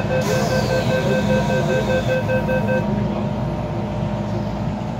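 MTR M-Train door-closing warning: a fast, evenly pulsed beeping that stops about three seconds in, over a falling hiss as the doors slide shut. A steady low train hum runs underneath.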